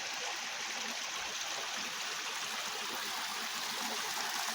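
Steady rush of flowing water from a creek that runs only after heavy rain.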